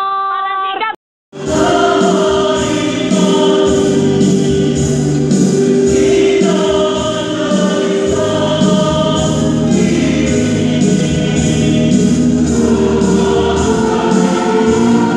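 A woman's voice, cut off about a second in. Then, after a brief gap, a choir singing in harmony, holding long chords.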